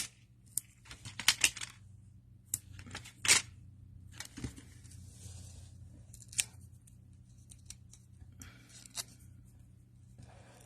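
Paper die-cuts and small craft pieces being handled and set in place: scattered light clicks and rustles, busiest in the first three and a half seconds and sparse after that.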